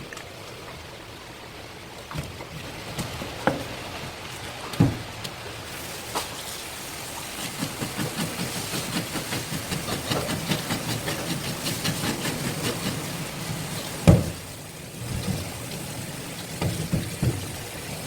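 Knife work on a rock bream on a cutting board: scattered knocks, then a run of quick, even scraping strokes about three a second lasting some six seconds, and one loud knock about fourteen seconds in.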